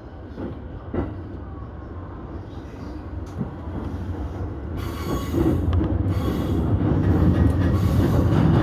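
Keihin-Tohoku Line electric commuter train pulling away and gathering speed, its running noise rising steadily, with a knock about a second in. A hiss of wheel and rail noise comes in about halfway through.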